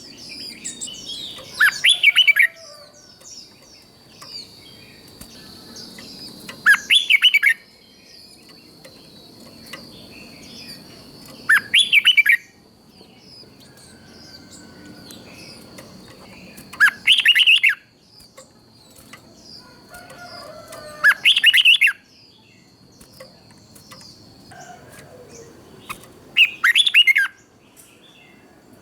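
Red-whiskered bulbul singing a short, loud song phrase about every five seconds, six phrases in all, with fainter chirps in between.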